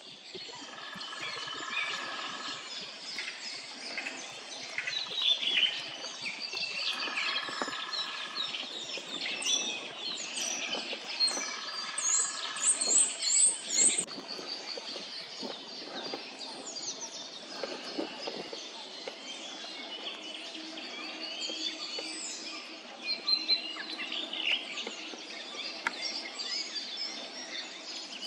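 Spring chorus of many songbirds singing and calling at once in woodland, with overlapping short chirps and trills. A flat held note of about a second and a half comes three times in the first half.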